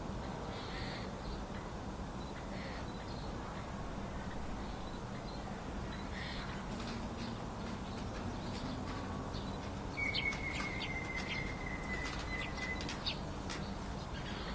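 Wild birds calling in a winter forest over a steady low background hum. There are a few soft, hoarse calls early on. About ten seconds in comes a thin whistle held for about three seconds, slightly falling, with sharp ticks over it.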